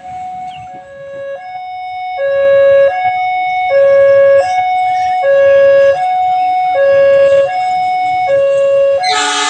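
Electronic level-crossing warning alarm sounding a repeating two-tone hi-lo signal, each tone held about three quarters of a second; it grows louder over the first few seconds and then holds steady.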